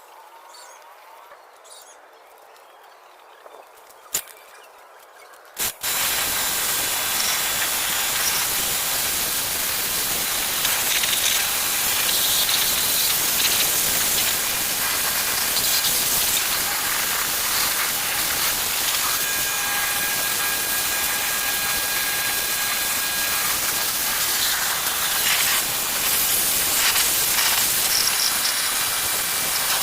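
High-pressure washer spraying: a loud, steady hiss of the jet that starts about six seconds in, after two sharp clicks.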